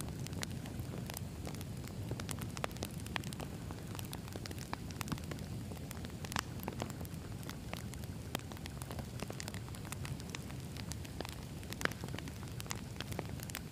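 Campfire of burning logs crackling, with irregular sharp pops and snaps over a steady low rumble of the flames.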